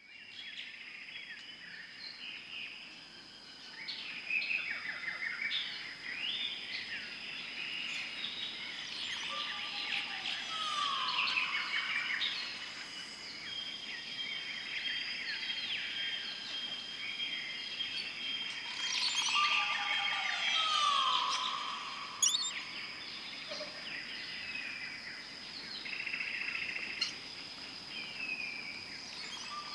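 A chorus of many wild birds chirping and whistling, with repeated slow falling whistles standing out now and then, over a steady high-pitched whine.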